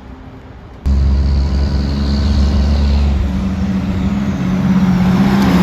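Heavy truck's diesel engine running loud and close, cutting in abruptly about a second in, over fainter traffic noise.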